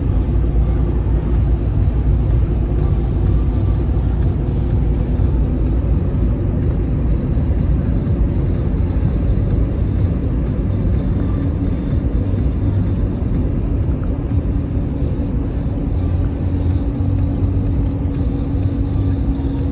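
Diesel semi-truck engine running steadily: a loud low rumble with a constant hum, whose tone shifts slightly a little past halfway.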